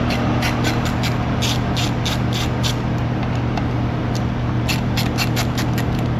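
Hand ratchet clicking in several short runs over a steady low hum.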